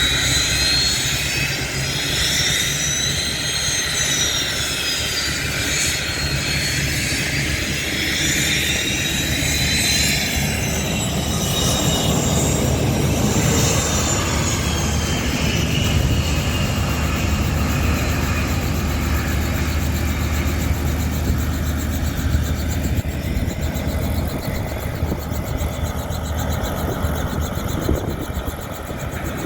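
Aircraft turbine engine running: a high whine that slowly rises and falls in pitch over the first dozen seconds or so, then fades, over a steady low rumble.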